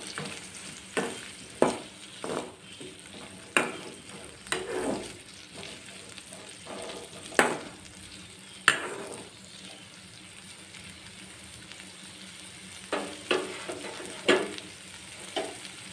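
Chopped onion, ginger and garlic sizzling in butter in a metal kadai, with a metal spatula stirring them and scraping and tapping against the pan in short strokes. The stirring stops for a few seconds past the middle, leaving only the steady sizzle, then picks up again near the end.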